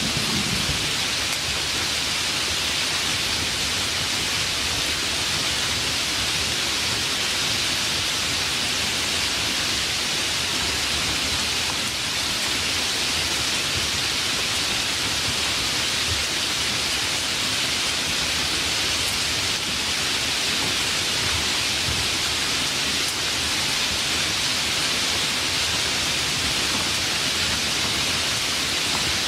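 Steady rain falling, an even hiss brightest in the upper range, with the last of a thunder rumble dying away in the first moment.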